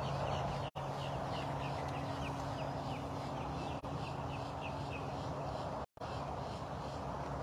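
A bird calling a quick series of short, falling chirps, about three a second, over steady breeze noise and a low hum. The sound cuts out briefly twice.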